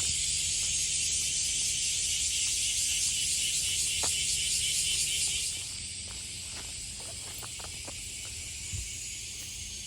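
Dense chorus of cicadas, a steady high-pitched shrill that drops to a quieter level a little past halfway. A few faint ticks come in the second half.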